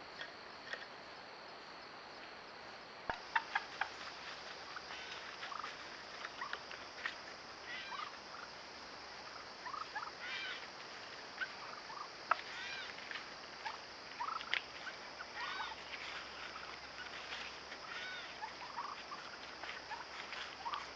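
A group of birds calling, many short arched calls overlapping from about three seconds in, over a steady high insect trill.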